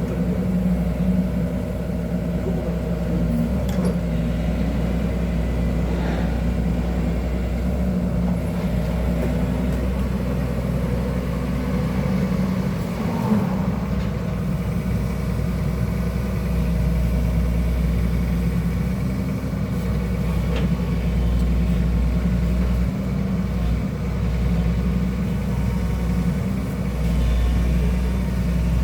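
Excavator's diesel engine running steadily, its level swelling and easing a little as the machine works.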